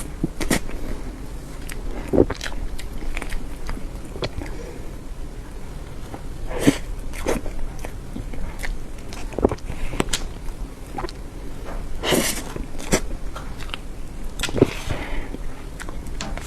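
Mouth sounds of someone chewing and biting soft cream cake, with irregular short, sharp clicks.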